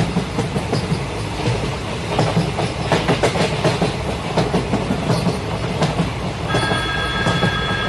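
Train rolling on rails, its wheels clattering over the rail joints with a steady rumble. Near the end a steady high-pitched whine joins in.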